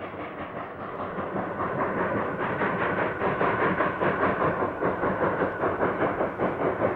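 Coal-fired narrow-gauge steam locomotive running with its train, a steady rhythmic beat of two to three pulses a second that grows louder about two seconds in.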